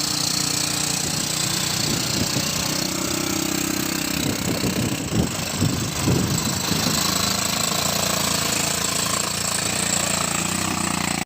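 ATV engine running steadily, with a brief change in pitch around the middle.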